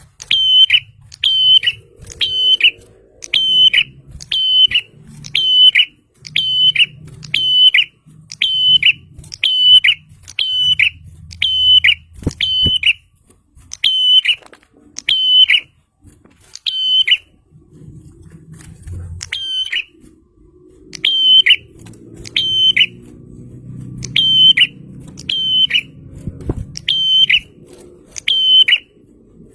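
A prenjak (prinia) calling insistently in a long run of short, sharp chirps about twice a second, each note dipping slightly in pitch. The run breaks off briefly past the middle, then resumes at a more irregular pace. This is the kind of persistent call used as a lure recording to draw prinias in.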